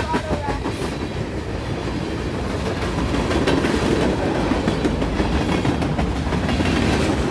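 CSX freight train rolling past, its cars' wheels clicking over the rail joints above a steady rumble that swells a little about three seconds in.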